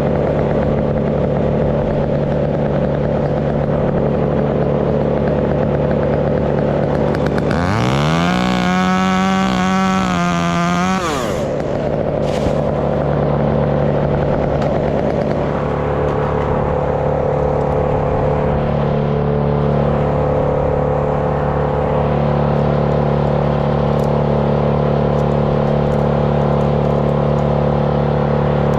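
A steady engine drone runs throughout. About eight seconds in, a chainsaw revs up to full throttle, holds for about three seconds and drops off suddenly.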